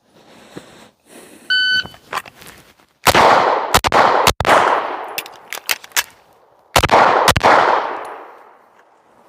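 A shot timer beeps once, then a Walther PDP pistol fires three quick shots, a few small clicks of a slide-lock magazine reload follow, and two more shots come about a second later. Each string of shots leaves a long fading echo.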